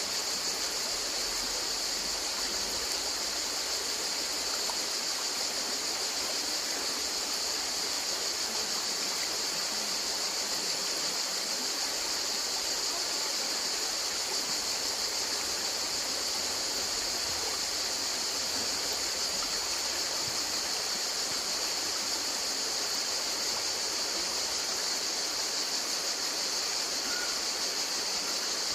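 A river flowing: steady rushing water with no breaks or changes.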